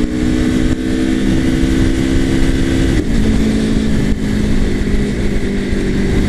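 Aprilia Tuono V4 Factory's V4 engine running under way at steady revs, dropping in pitch about three seconds in, with wind noise over it.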